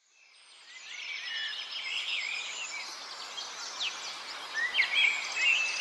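Small songbirds chirping and twittering over a steady background hiss, fading in over the first second.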